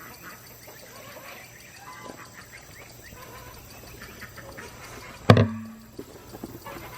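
Birds calling in the background, many short scattered calls. About five seconds in there is a single sudden loud knock.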